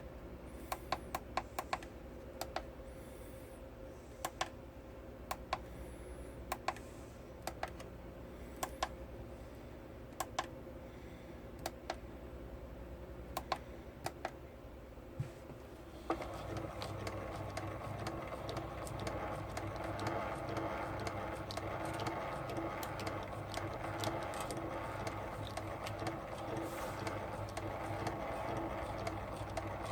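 8mm film projector running with a steady mechanical clatter and scattered sharp clicks. About halfway through, a louder, fuller running noise sets in.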